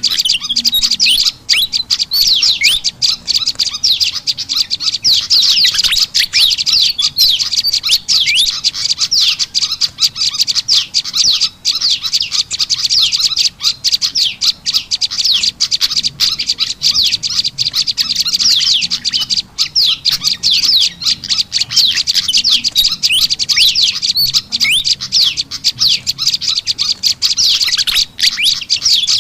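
Bird-lure recording of prenjak lumut calls mixed with agitated fantail (kipasan) calls: dense, rapid, high-pitched chirping and twittering with no pause.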